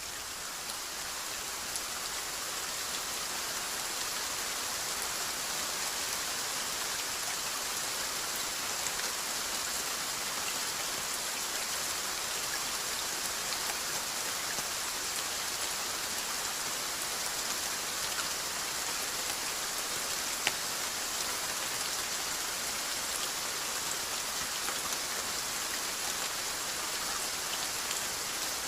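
Steady rainfall: a dense, even hiss of drops with scattered individual drop ticks. It swells gently over the first few seconds, and one sharper drop tick comes about twenty seconds in.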